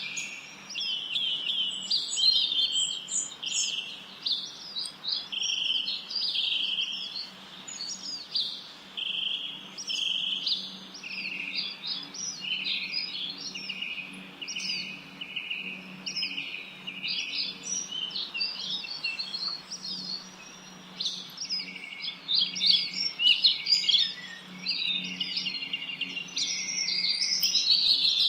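Songbirds chirping and singing continuously, many short overlapping calls and trills, over a faint steady low hum.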